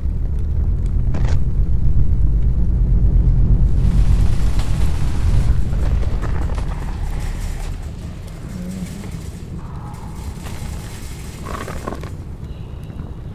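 Low rumble of a passing vehicle, swelling over the first couple of seconds, with a rush of hiss about four seconds in, then fading away by about seven seconds in. A few fainter short knocks come near the end.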